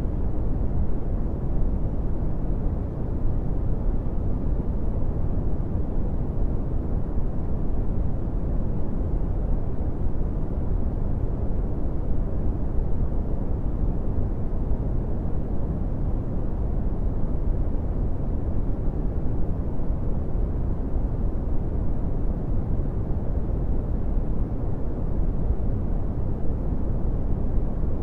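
Steady brown noise: an even, deep rumbling hiss, strongest in the bass and fading out toward the highs, with no changes.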